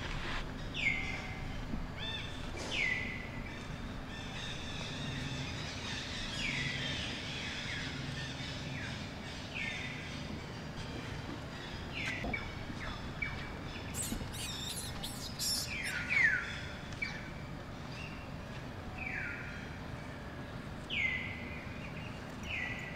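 Repeated bird calls, each a short whistle sliding down in pitch, about nine of them at intervals of two to three seconds. A brief cluster of sharp clicks comes about two-thirds of the way through.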